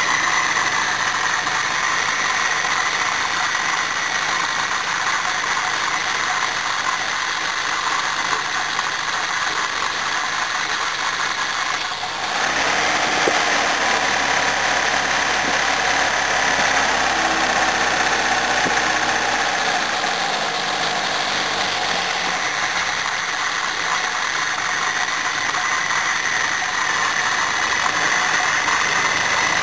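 Ford Pinto 1.6 four-cylinder engine idling steadily, its Weber 32/36 twin-choke carburettor running with the air cleaner off.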